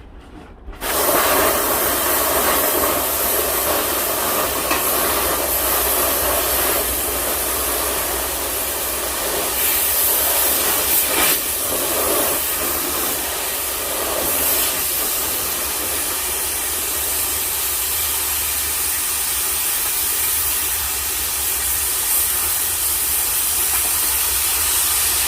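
Oxy-fuel cutting torch hissing steadily, starting abruptly about a second in, as it heats and cuts through a seized part.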